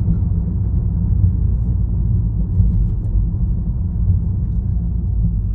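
2019 Honda Accord Sport's turbocharged 2.0-litre four-cylinder running with its muffler deleted: a steady, deep exhaust drone, without any distinct pops.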